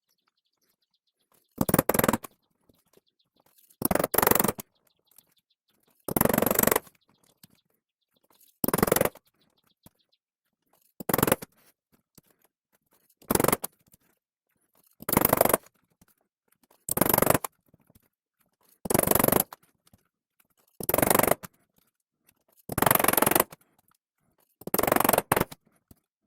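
Cord being pulled through stitching holes in PU leather while hand-sewing, a rasping pull about every two seconds, a dozen times over.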